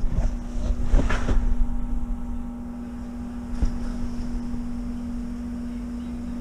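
A steady low machine hum runs throughout, with a few knocks in the first second and a half and one more about three and a half seconds in.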